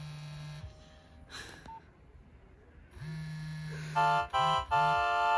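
Nokia 1112 mobile phone. Its vibration motor buzzes, stops, then starts again, with a click and a short key beep in between. About four seconds in, a loud, simple electronic ringtone melody begins and the buzz pulses along with it.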